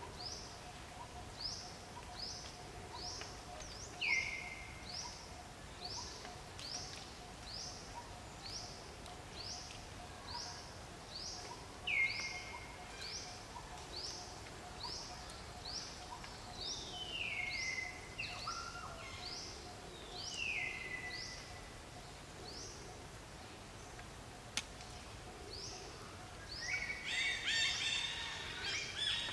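Birds calling: one bird repeats a short, high, rising chirp steadily, about three every two seconds, while a lower call falls in pitch four times. Near the end a louder burst of mixed chattering calls.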